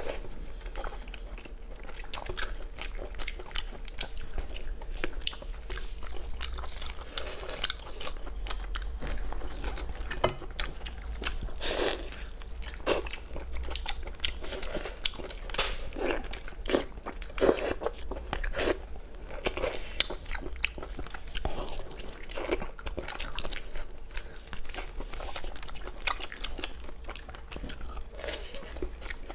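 Two people biting and chewing roasted lamb ribs close to the microphone: a continuous, irregular run of short bites, chews and mouth clicks as meat is pulled from the bone.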